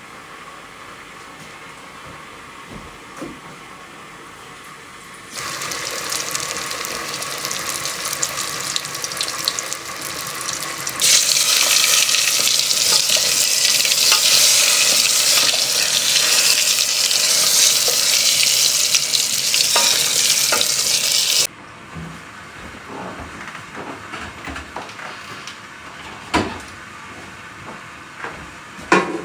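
Water running into a sink or basin: it starts about five seconds in, gets much stronger about halfway, then is shut off abruptly. A few light clinks and knocks follow near the end.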